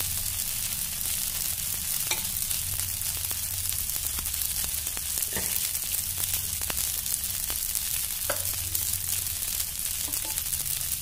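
Dosa frying on a hot tawa, with oil poured over its top: a steady sizzling hiss with small crackles scattered through it.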